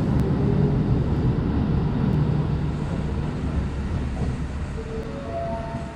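Electric train running past with a low rumble that fades steadily as it moves away, a few faint whining tones showing near the end.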